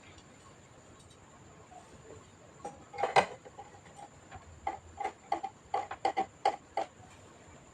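A run of about a dozen small, sharp clicks and taps, the loudest about three seconds in, from computer parts and tools being handled during disassembly.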